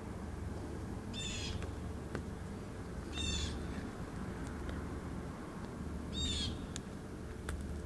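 A bird calling three times, each a short chirping call about two to three seconds apart, over a low steady hum and a few faint clicks.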